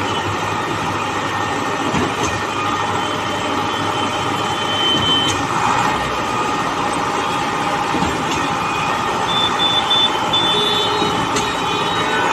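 Heavy construction machinery running steadily, with a high tone a few seconds in and a run of short high beeps near the ten-second mark.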